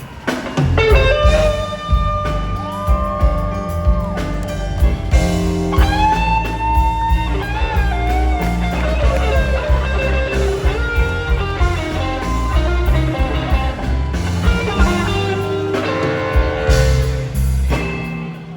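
Live electric blues: an electric guitar plays lead lines with bent, gliding notes over the band.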